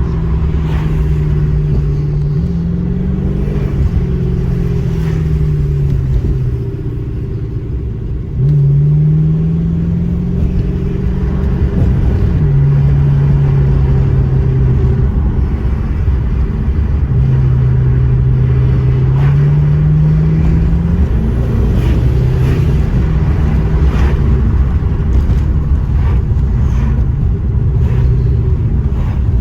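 Maserati 3200 GT's twin-turbo V8 under way, its pitch climbing under acceleration and dropping back at each gear change three times, with steady cruising in between over a low road rumble. It gets suddenly louder about eight and a half seconds in as the car is pushed harder.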